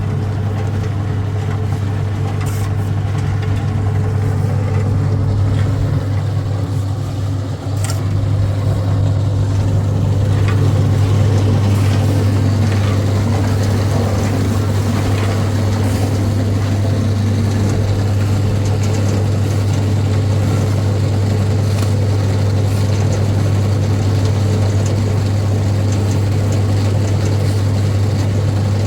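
An engine running steadily at a constant speed, a loud low drone, with a few faint clicks and knocks on top.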